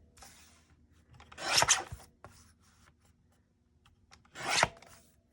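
Paper being worked by hand: short rasping strokes about half a second long, one near the start, one in the middle and one near the end.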